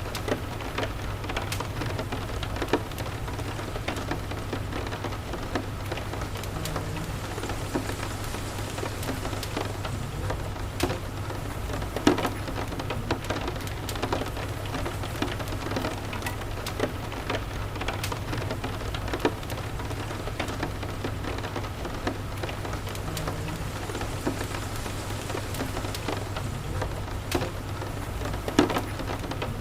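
Steady rain with a fireplace crackling, a scatter of sharp pops over a constant low rumble, with a few louder pops about twelve seconds in and near the end.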